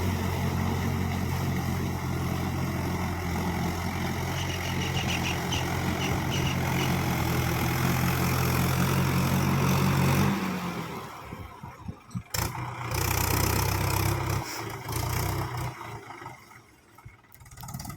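Mahindra tractor's diesel engine running with a steady low hum. About ten seconds in it drops away sharply, comes back more weakly for a few seconds, then fades.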